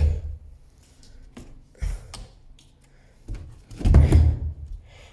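A few dull thumps with light knocks between them; the loudest thump comes about four seconds in.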